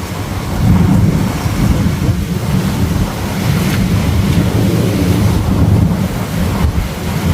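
Thunder rumbling long and low, swelling about a second in and rolling on, with wind and rain noise behind it.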